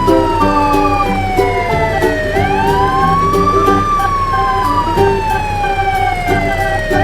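A siren wailing in slow cycles: each rises quickly, then falls slowly over about three seconds. It comes round about every four and a half seconds, over background music with a steady beat.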